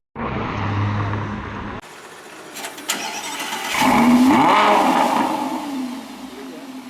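Car engine revving loudly as a car drives by, swelling about four seconds in with its pitch rising then falling, then fading away. The audio is cut abruptly twice before that.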